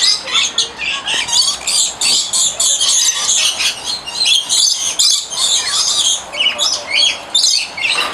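A flock of lorikeets screeching and chattering, many loud, harsh, overlapping calls with no break.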